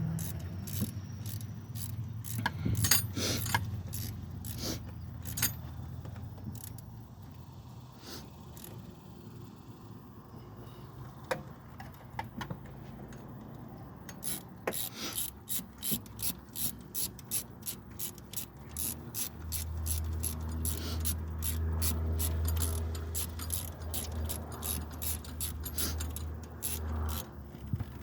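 Socket ratchet wrench clicking in quick strokes as bolts are turned on the alternator, with scattered metallic clinks of tools and parts. A low steady hum joins in the later part.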